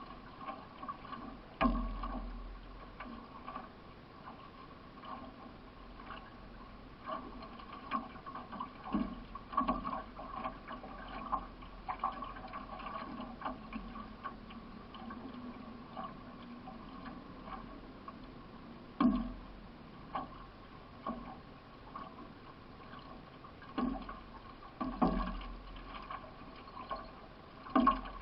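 Solo racing canoe under way: the paddle dipping and splashing through the water at roughly a stroke a second, with a few louder knocks scattered through.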